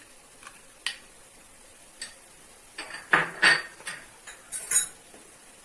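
A spoon clinking and scraping against a kadai in several sharp strokes, loudest in a cluster about three seconds in, as paste is spooned in and the masala is worked.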